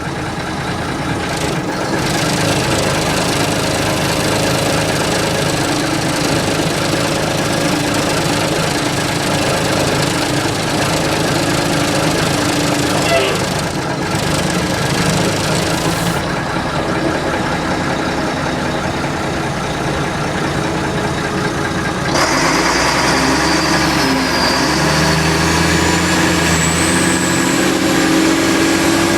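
Fire ladder truck's diesel engine running, heard from the open cab; about two-thirds of the way through it gets louder, with more rushing noise and shifting engine pitch as the truck pulls away.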